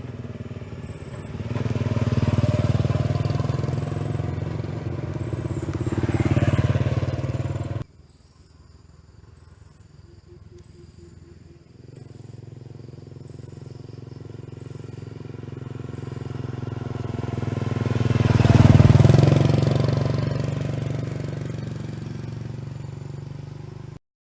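A small motorcycle engine running as the bike rides by, the sound swelling and fading; after an abrupt cut it builds again to a loud pass about two-thirds of the way through, then fades.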